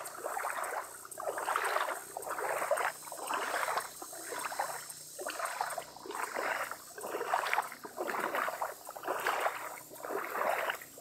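Footsteps wading through shallow floodwater, a steady walking rhythm of splashing sloshes about one every three-quarters of a second.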